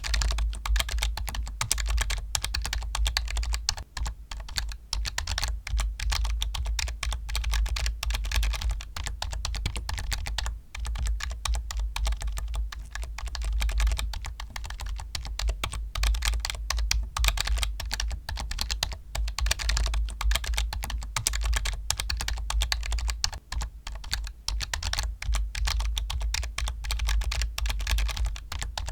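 Continuous fast typing on a computer keyboard: a dense, unbroken run of key clicks with only brief pauses.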